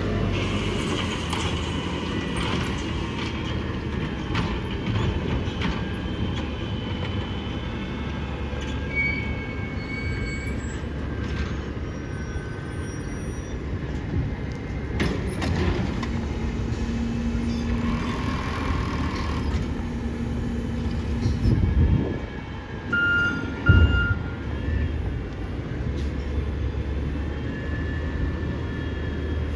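Garbage trucks running in the yard, with high thin brake squeals coming and going over a steady low engine rumble. Two short beeps sound a little after twenty seconds in.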